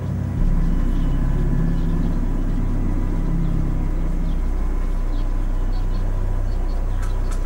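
Car engine running with a steady low rumble that grows louder about half a second in and holds even.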